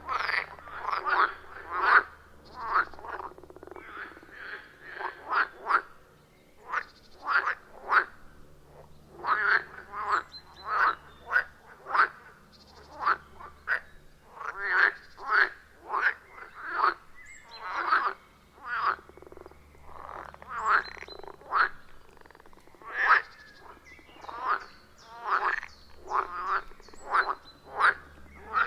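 Chorus of frogs croaking at a pond: short calls come one after another, often several a second, in irregular runs with brief lulls.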